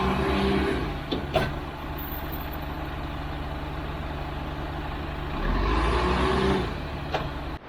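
Heavy diesel engine running steadily, swelling louder under load at the start and again about five and a half seconds in. There is a sharp metallic knock about a second and a half in.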